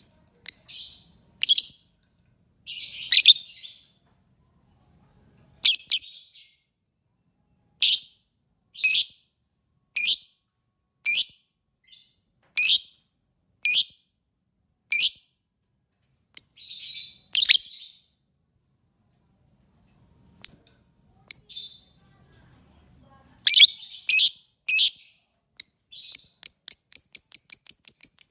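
Lovebird song: sharp, high chirps, roughly one a second, at times over a thin steady high whistle. Near the end they speed up into a fast trill.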